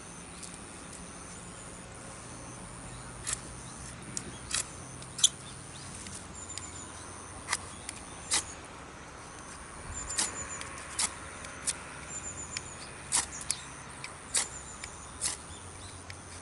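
A fire starter being struck again and again over feather sticks: about a dozen sharp, scattered clicks and scrapes as the kindling fails to catch. Faint short high chirps and a low steady hum lie under it in the first half.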